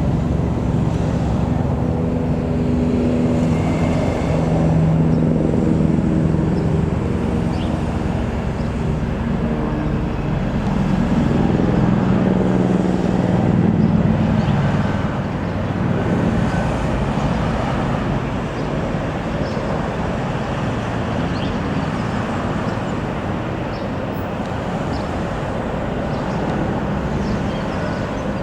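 Loud, steady vehicle engine noise with a pitched engine tone that swells twice, around five and thirteen seconds in, then settles.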